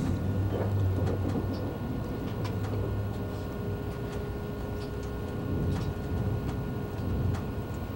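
Carriage noise of a first-generation ICE high-speed train, heard from inside: a steady low rumble with scattered light clicks, and a faint steady hum that comes in about three seconds in.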